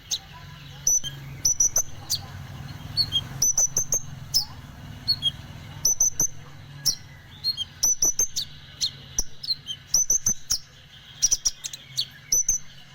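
Konin bird giving short, sharp, high chirps in quick clusters of two or three, repeated every second or so.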